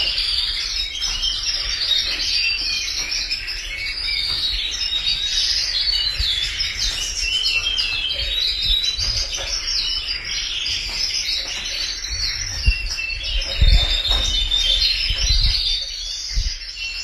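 Canaries singing: a dense, unbroken chorus of rapid trills and chirps. A few low thumps come in the second half.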